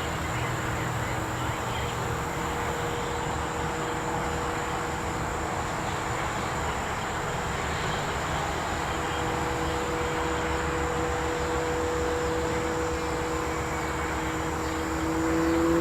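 A steady distant motor drone with two hum tones over a background hiss. The hum rises slightly in pitch and gets louder near the end.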